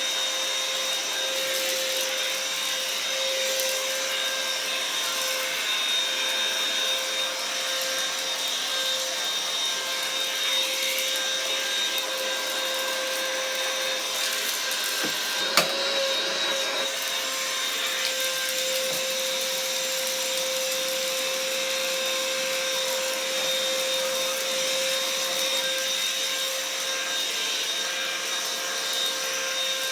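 Black & Decker vacuum cleaner running steadily with a constant motor whine and the crunch of debris being sucked up. There is a single sharp click about halfway through.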